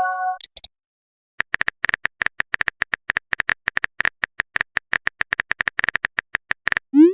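Rapid run of phone keyboard typing clicks, about eight a second, after the brief tail of a message chime. A short rising swoosh near the end, like a message-sent sound effect.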